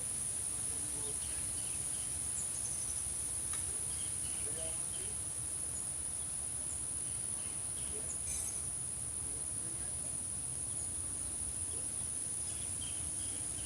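Crickets trilling in a steady, continuous high-pitched chorus. A small bird gives a few faint short chirps about four seconds in and again near the end, over a low outdoor rumble.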